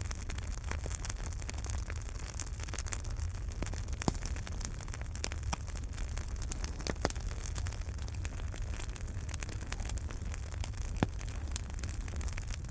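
Wood fire in a fireplace burning with a low steady rumble and many small crackles, and a few louder sharp pops, about a second after the start of the fourth second, near the middle and about two seconds before the end.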